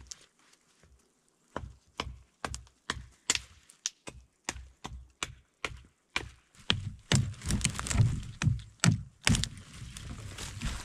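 A steady run of sharp crunching or cracking impacts, about two a second, then a denser, louder flurry of cracking and crunching in the second half.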